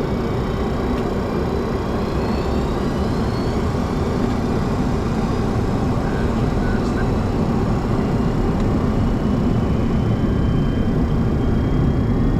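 Boeing 737-200 heard from the cockpit at the start of the takeoff roll: a steady rumble as its Pratt & Whitney JT8D engines spool up toward takeoff thrust, with faint rising whines, growing slightly louder near the end.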